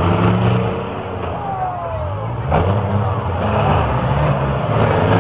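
Demolition derby cars' engines revving and running loudly, with a sharp bang about halfway through.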